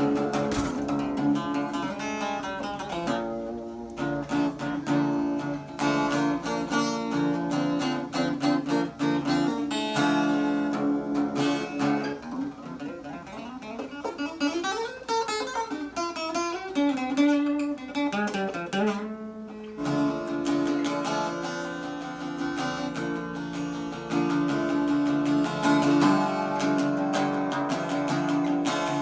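Acoustic guitar music, with notes held and ringing; about halfway through, some notes sweep and waver in pitch for a few seconds.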